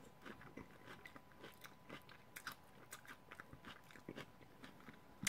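Close-up chewing of a crispy fried tostada with lettuce and tomato: a run of small, irregular crunches as the shell breaks up in the mouth.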